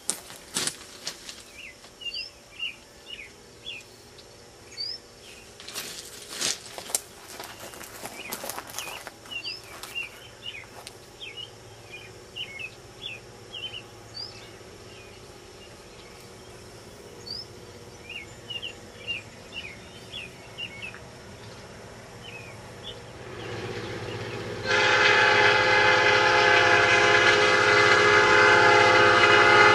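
Small birds chirp amid a few clicks, then a locomotive's rumble rises, and about 25 seconds in the horn of an EMD GP38 locomotive blows loud and steady, a chord of several tones held to the end.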